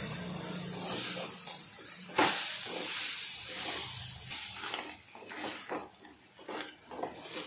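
Crab pieces and spices sizzling as they are stir-fried in an earthenware clay pot, with a spatula scraping and knocking against the pot. One sharp knock comes about two seconds in, and short separate scraping strokes follow in the second half.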